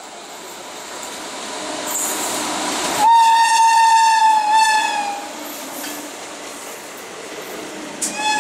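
Express train passing at speed, with the rush of its wheels and coaches building over the first few seconds. About three seconds in, its WAP-7 electric locomotive's horn sounds one long blast lasting about two seconds, and the rumble of the passing train continues after it.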